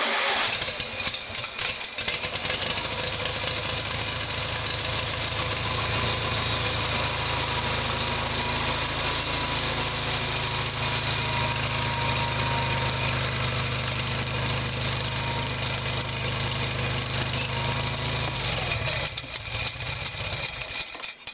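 Sears Suburban SS/16 garden tractor engine on a cold start: it comes in loudly at the start, settles into a steady run, then shuts off about 19 seconds in.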